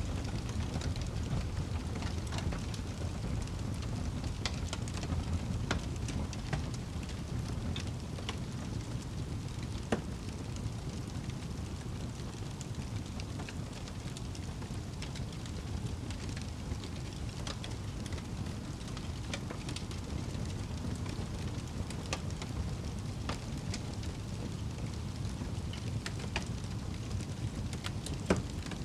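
Fire burning in a fireplace: a steady low rumble of flames with scattered crackles, and two louder pops, one about ten seconds in and one near the end.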